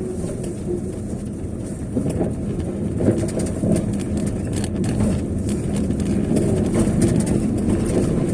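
A vehicle driving along a road: a steady low rumble of engine and tyres, with a few short knocks.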